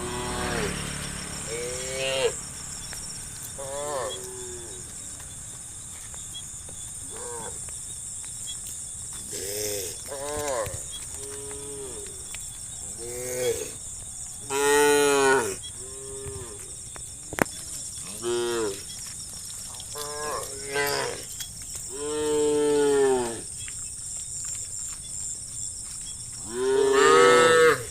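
Cattle mooing: a run of separate moos from several cows, one after another, with long loud moos about halfway through, around two-thirds of the way in, and near the end. A faint steady high hiss runs underneath.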